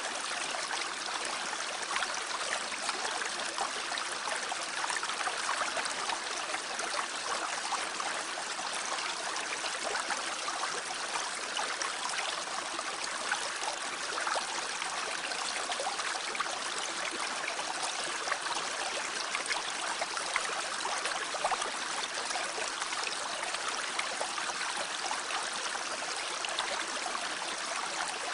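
Mountain stream rushing and babbling over rocks, a steady, unbroken water sound.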